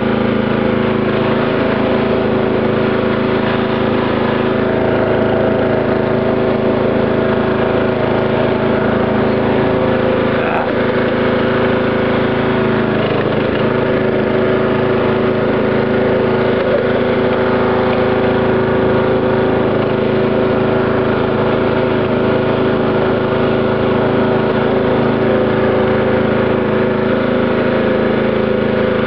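Dynamark riding tractor's 12 hp Briggs & Stratton engine running steadily at an even speed.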